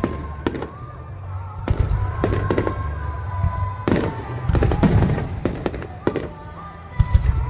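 Aerial fireworks shells bursting over and over, a sharp bang with a low rumble roughly every second, some followed by crackling.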